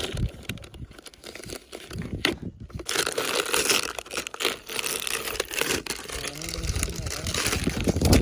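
Masking paper being torn and peeled off a freshly painted car body and crumpled: scattered crackles at first, then continuous rustling and tearing from about three seconds in.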